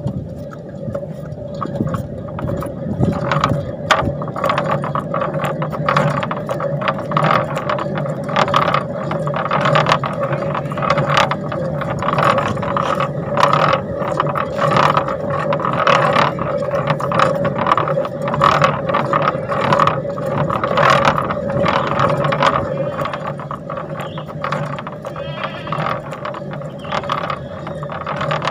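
Mitsubishi Canter truck's front wheel bearing turning with a steady buzz and many irregular clicks and grinds, the sign of a damaged wheel bearing.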